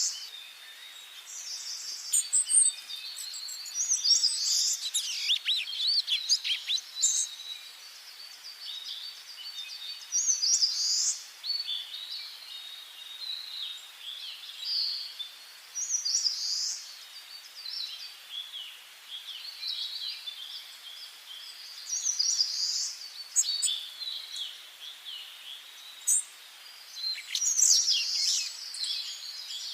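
Wild songbirds singing in a forest: short, high-pitched song phrases coming every few seconds, over a faint steady hiss.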